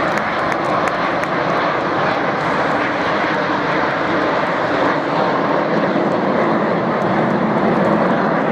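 Fixed-wing aircraft flying past at an air show: a loud, steady engine noise that swells slightly toward the end.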